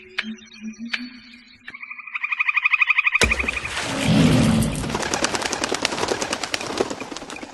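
Bird calls: soft low hoots, then a fast high trill, then from about three seconds in a loud, harsh, rapid rattle.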